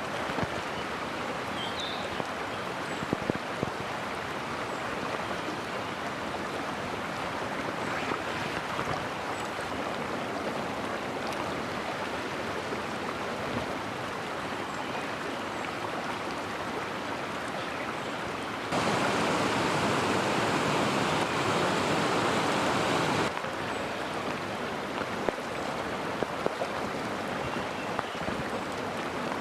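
Mountain stream flowing, a steady rush of water. In the second half it grows louder for about four seconds, starting and stopping abruptly, and a few faint clicks sit over it.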